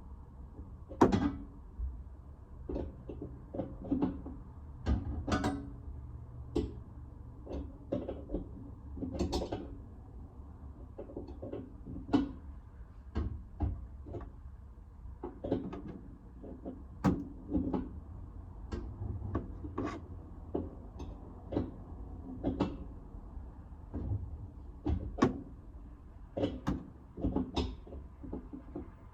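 Irregular knocks and clatters of objects being handled and set down, roughly one a second, over a steady low hum.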